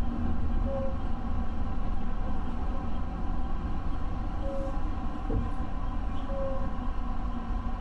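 Electric train running, heard from inside the front car: a steady low rumble of motors and wheels on the rails, with a short faint tone recurring about every two seconds.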